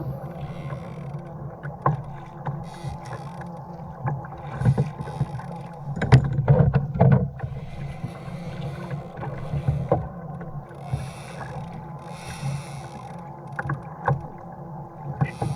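Kayak hull on the sea: water sloshing against the plastic hull with a steady low rumble, and a cluster of sharp knocks about six to seven seconds in.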